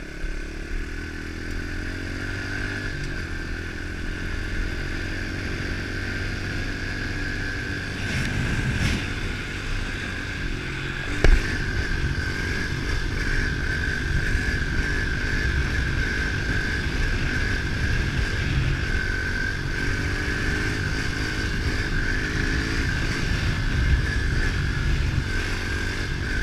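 110 cc pitbike's four-stroke single running under way, its revs slowly rising and falling. A steady high-pitched squeak runs over it, which the rider puts down to an unlubed drive chain. There is one sharp knock about eleven seconds in.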